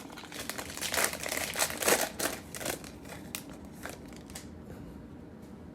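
A trading card pack's foil wrapper being opened: a few seconds of crinkling and tearing crackles, easing off near the end.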